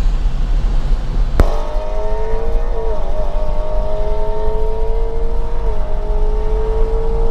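Ford Mustang GT's 5.0 Coyote V8 under hard acceleration over a steady low rumble. After a sharp click a little over a second in, the engine note climbs, dips briefly at a gear shift about three seconds in and again near six seconds, and climbs again.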